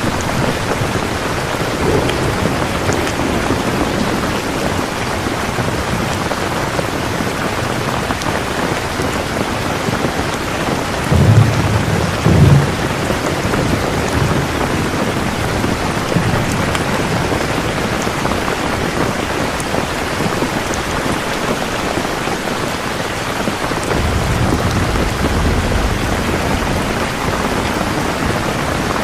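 Steady heavy rain falling. Two short, loud low rumbles of thunder come in quick succession a little before the middle, and a softer, longer low rumble follows later.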